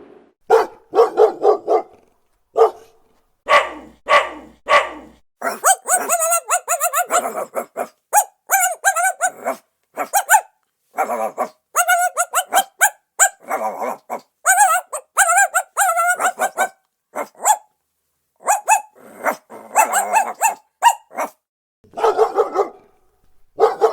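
Dogs barking in fast, repeated runs of barks, several a second, with short silent breaks between runs. This is continuous, incessant defensive barking, as a dog gives when alarmed by a stranger or another dog.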